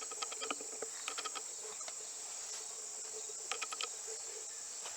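Insects, crickets by their chirping, make a steady high-pitched trill. Short clusters of rapid chirps break in over it every second or two.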